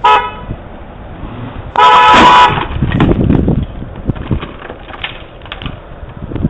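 Car horn sounding twice: a short toot, then a longer blast of under a second about two seconds in, over road noise.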